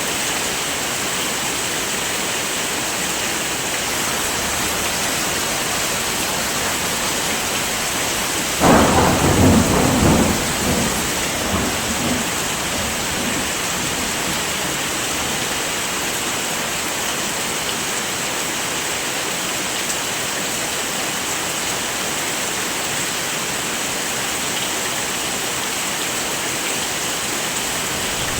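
Steady heavy rain with an even hiss. About a third of the way in, a clap of thunder breaks suddenly and rumbles for a few seconds before fading back into the rain.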